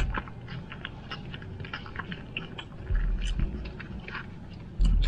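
Close-up chewing of a mouthful of double-patty cheeseburger, with many small wet mouth clicks and smacks. Dull low thumps come about three seconds in and again near the end.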